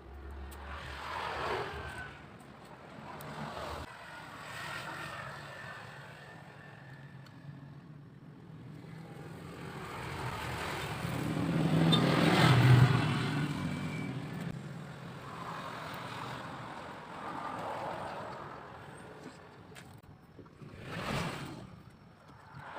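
A motor vehicle passing by, its noise slowly swelling to a peak about halfway through and then fading away.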